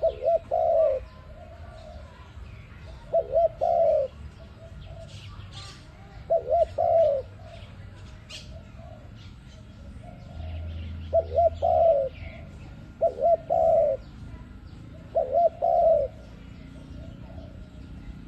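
Dove cooing: a short phrase of a few low coos, repeated six times about every two to three seconds, with faint higher chirps of other birds behind it.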